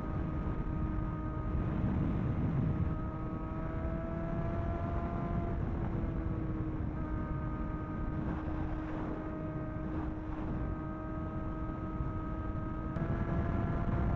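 Sport motorcycle engine at a steady cruise, its note creeping up slowly, dropping back about halfway through, then stepping up again near the end, over a low rush of wind and road noise.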